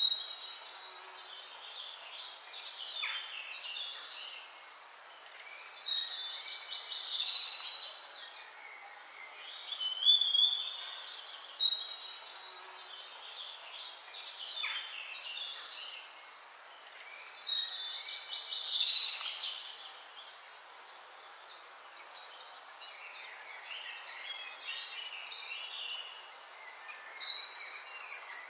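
Songbirds singing: a rich, high-pitched song phrase repeats every four to six seconds, with fainter chirps between phrases over a soft steady background hiss.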